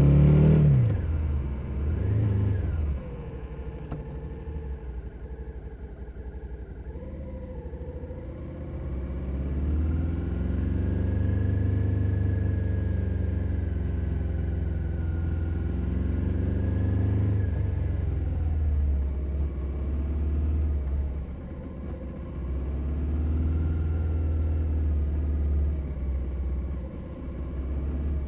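Stock 2021 Suzuki SV 650's 645 cc V-twin engine and exhaust on the move. The revs drop sharply at the start and blip briefly about two seconds in. The engine runs low and quieter for several seconds, then pulls harder from about nine seconds in and cruises with revs rising and falling, easing off twice near the end.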